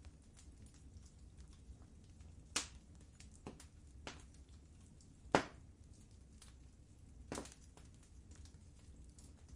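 Wood fire crackling in a fireplace: scattered sharp pops and snaps over a low steady rumble of burning, with louder pops about two and a half, five and a half and seven and a half seconds in.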